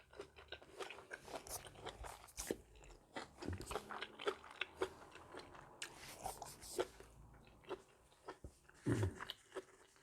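A person chewing and crunching a spicy mixed-seafood salad close to the microphone: irregular wet crunches and smacks, with a couple of louder bites near the end.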